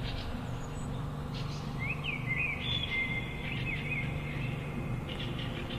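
A songbird sings one short phrase of quick rising and falling notes about two seconds in, over a steady low background rumble.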